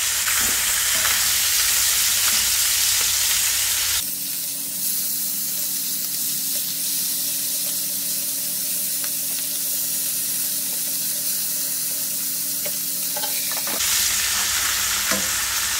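Mackerel steaks sizzling in oil in a frying pan, a steady hiss. About four seconds in the sizzle drops quieter, with a faint low hum beneath, and it grows loud again near the end.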